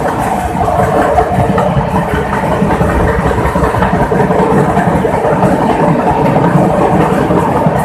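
Indian Railways express train running through a tunnel, heard from an open coach doorway: a loud, steady rumble of wheels and carriages.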